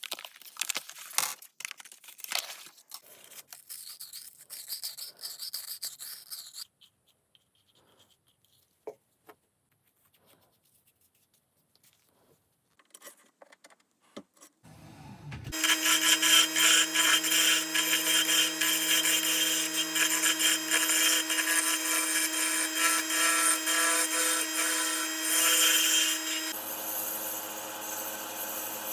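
Buckeye burl wood being worked. There are rough sawing or rasping strokes for about six seconds, then a lull. About halfway through, an electric power tool starts with a steady hum, and loud cutting noise from the wood runs over it. Both drop somewhat in level near the end.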